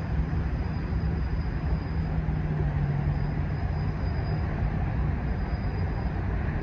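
Steady low rumble of a diesel train out of sight, with a held low hum.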